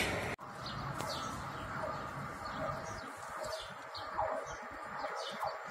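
Passing freight train noise cut off abruptly a moment in, followed by small birds chirping: short, high, downward chirps repeating every half second or so.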